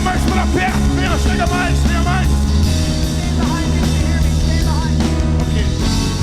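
Live church worship band music with heavy bass and sustained keyboard chords. A voice slides up and down over it through the first two seconds, and again about halfway through.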